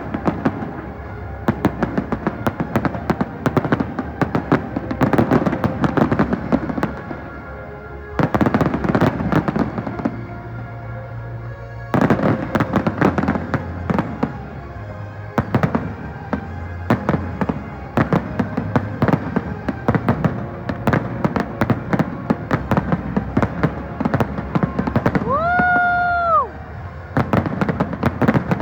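Fireworks display: a dense run of bangs and crackles, with music playing underneath. Near the end comes a brief whistle-like tone about a second long.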